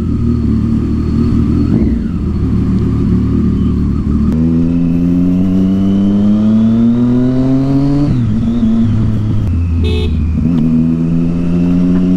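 Triumph Street Triple 675's inline-three engine through a loud Yoshimura aftermarket exhaust. It runs at steady revs, then pulls hard with its pitch climbing for about four seconds, drops at a gear change around eight seconds in, and settles to a steady cruise.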